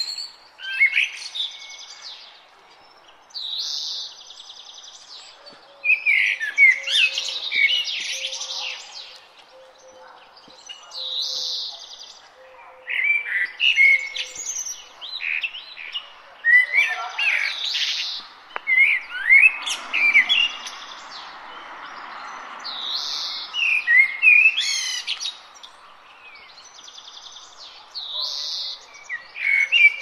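Songbirds singing outdoors in short, varied, chirping phrases that come every few seconds with brief pauses between. A soft rushing noise swells and fades about two-thirds of the way through.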